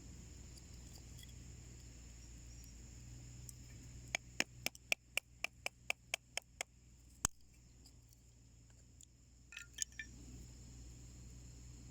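Wood fire burning in a small homemade wood stove, over a steady high insect chirring. About four seconds in comes a quick, even run of about ten sharp clicks, roughly four a second, then one louder click and a short cluster of clicks near the end.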